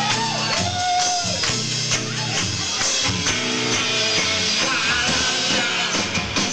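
Live rock band playing at full volume: electric guitar, bass and drums, with a high note sliding up and down near the start.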